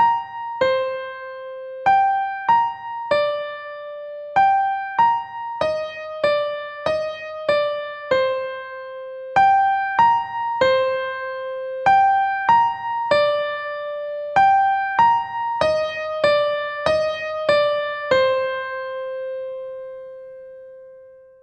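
Slow, gentle electric piano melody played one note at a time, ending on a long held note that fades away near the end.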